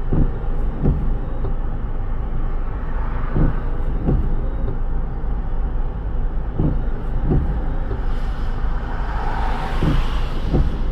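Steady low road rumble of a car driving in rain, with windshield wipers thumping in pairs about every three seconds as they sweep across and back. A hiss of wet spray swells twice, about three seconds in and near the end.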